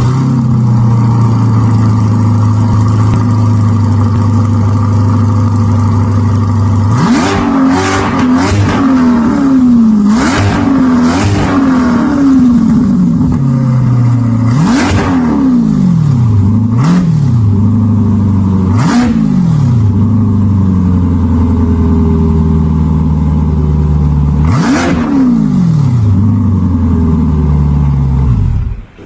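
Chevrolet Corvette C8 with an aftermarket center exhaust idling steadily, then revved in a series of quick, sharp blips from about seven seconds in, each dropping straight back to idle. The sound stops abruptly near the end.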